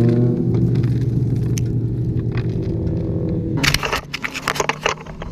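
A crashed sport bike's engine idling low, its revs settling, then cutting out about three and a half seconds in. A run of sharp clicks and knocks follows.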